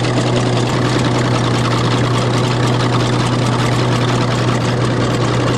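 Engine running steadily at constant speed, with a strong low hum that holds one pitch throughout.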